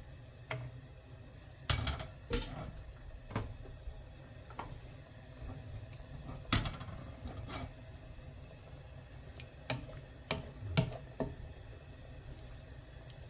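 Scattered kitchen clatter: a handful of sharp knocks and clinks of utensils and containers at uneven intervals, over a faint steady hiss from the soup pot simmering.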